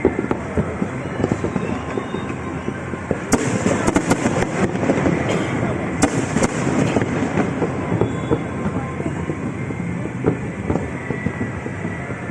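Aerial fireworks going off: a dense, continuous crackle of many small bursts, with a few sharper, louder bangs about three seconds in and again about six seconds in.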